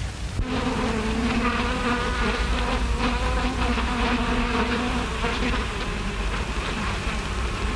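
Bees buzzing, a steady droning hum that starts about half a second in and dies away around five seconds, over a low steady hum.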